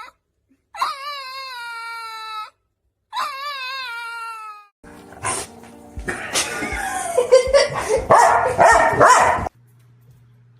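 A dog howling: two long, wavering howls, each falling in pitch at the end. They are followed by a louder, jumbled stretch of noise with music under it that cuts off suddenly near the end.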